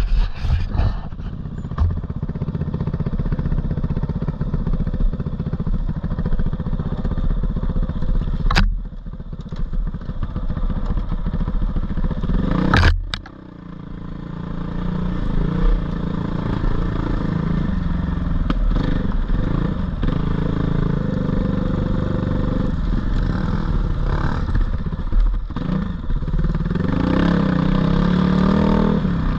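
Four-stroke 450 dirt bike engine running and revving on and off the throttle on a trail ride. There are two sharp knocks, about nine and thirteen seconds in. After the second, the engine drops off briefly before picking back up, and it revs up again near the end.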